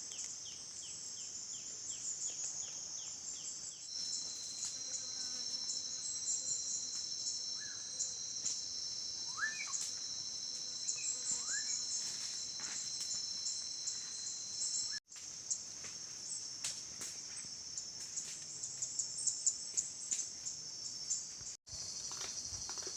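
Forest ambience of steady, high-pitched insect trilling, with a few short rising bird chirps about ten seconds in. The sound cuts out for an instant twice near the end.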